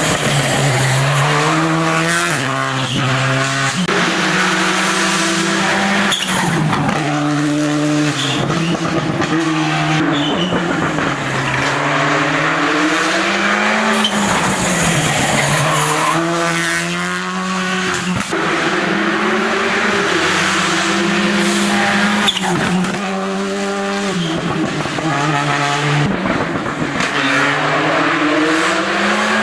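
Rally car engines under hard acceleration, their pitch climbing and then dropping again and again every few seconds as they shift gears and lift for corners.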